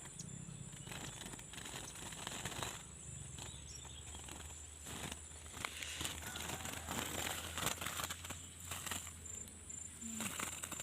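Small wild birds just caught with birdlime fluttering their wings, short irregular flurries of rustling flaps. A faint steady high-pitched tone runs behind.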